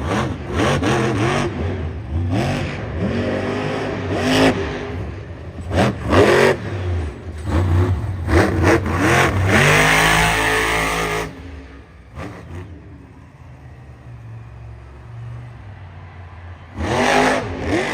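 Monster truck engine revving hard in repeated bursts, its pitch sweeping up and down, with a long full-throttle run about ten seconds in. It then drops to a low idle for several seconds and revs again near the end.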